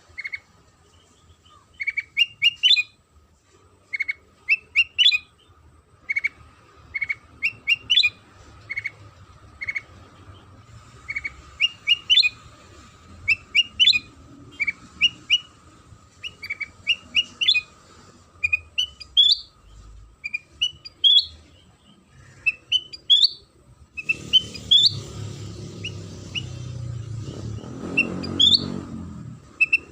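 Silver-eared mesia (kutilang sutra) singing, a steady run of short, quick, rising chirps in little groups of two to four. A low rumbling noise comes in under the song near the end.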